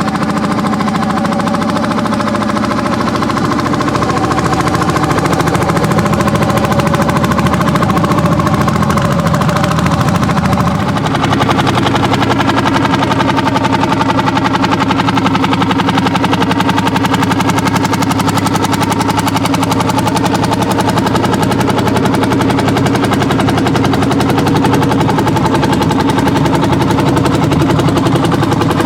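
Landini hot-bulb tractor engines, single-cylinder two-strokes, running hard under plowing load with a fast, even beat of exhaust strokes. About eleven seconds in, the pitch shifts as a different engine note takes over.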